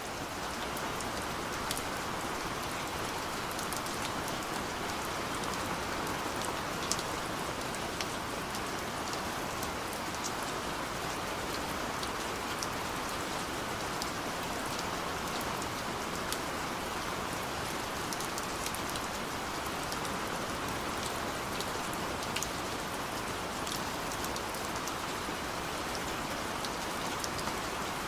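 Steady rain falling, an even hiss with individual drops ticking on a surface throughout.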